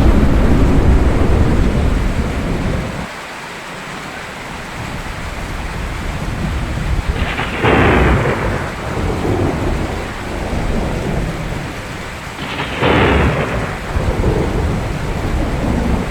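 Thunderstorm with steady rain: a heavy rumble of thunder fades out about three seconds in, then two sharp cracks of thunder strike about five seconds apart, near the middle and a few seconds before the end, over the hiss of falling rain.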